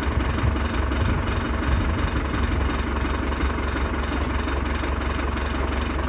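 Diesel engine of a YTO Agri Master 854 tractor running steadily with a deep, even rumble.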